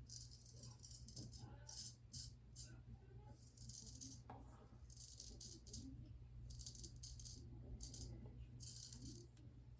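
Vintage straight razor scraping through lather and several days of stubble: a series of short, faint, high scratchy strokes.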